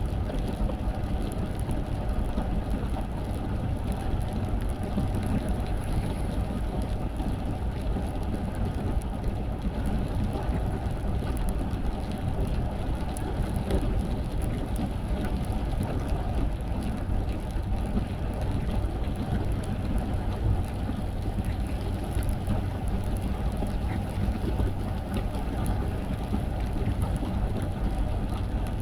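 Car driving in the rain: a steady low rumble of engine and road noise, with rain heard over it.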